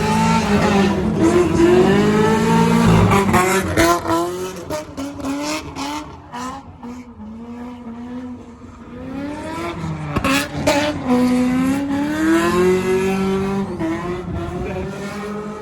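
Drift car engine revving up and down with tires squealing, loud at first, fading away for a few seconds in the middle and coming back again. A few sharp cracks cut through around the middle.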